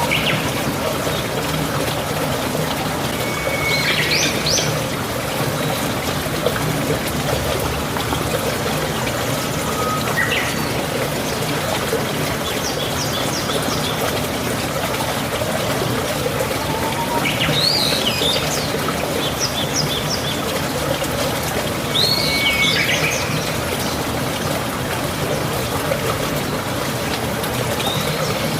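Steady running water, like a small stream, trickling and splashing, with birds singing short chirps and trills every few seconds over it.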